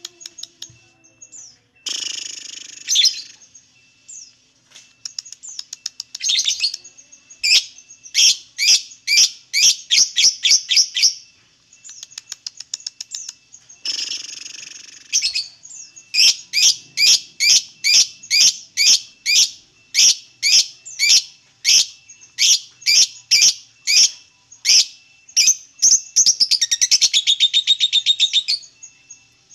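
Lovebird ngekek: long runs of sharp, high chirps at about two to three a second, broken by two harsh screeches early and midway, with a fast buzzing trill near the end.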